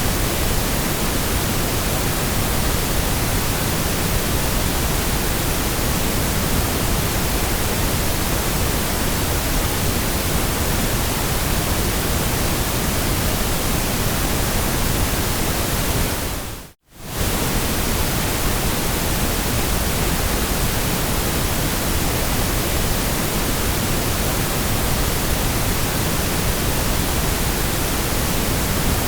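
Steady synthetic white noise, an even hiss with no tone or rhythm. It dips briefly to silence and comes straight back about seventeen seconds in.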